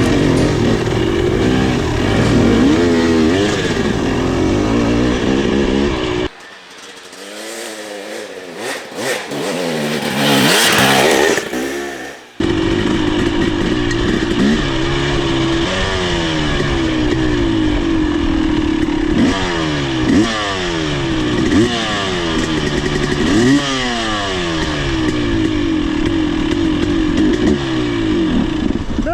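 A KTM 300 XC-W two-stroke dirt bike engine riding a trail, its pitch rising and falling over and over as the throttle is worked and the gears shift. For several seconds in the middle the engine sound drops away, with a loud rushing noise, then it comes back at full level.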